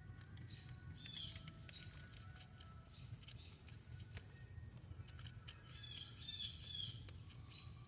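Faint bird chirps in short bursts, about a second in and again near the end, with a few faint clicks.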